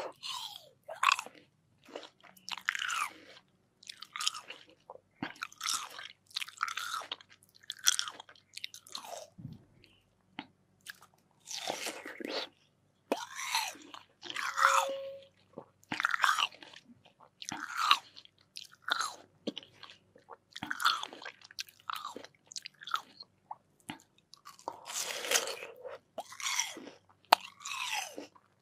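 Close-miked bites and chewing of crisp, juicy watermelon, a run of wet crunches every second or so with short pauses between.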